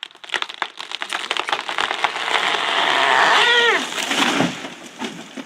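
A felled tree coming down: sharp cracks, then a swelling rush of crackling branches that builds for about two seconds and dies away. A short high cry falling in pitch rises over it near the middle.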